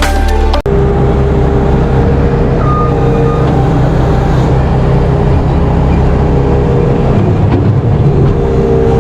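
Farm tractor's diesel engine running steadily at a constant speed, its drone even with no revving. A short tail of music ends abruptly just before the engine sound comes in.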